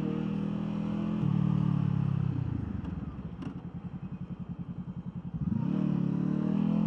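Motorcycle engine running under way, easing off to a pulsing idle partway through, then revving up again near the end as the bike pulls away.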